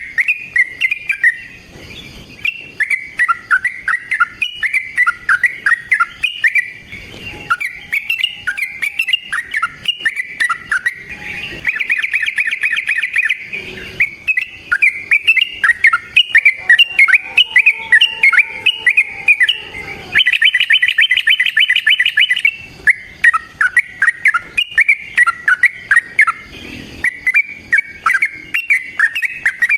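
Yellow-vented bulbul (trucukan) singing a long, continuous bubbly chatter of rapid gliding notes, broken twice by a fast, even trill.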